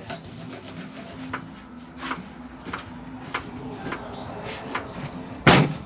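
Scattered light clicks and knocks over a steady low hum, then one loud, sharp thump near the end.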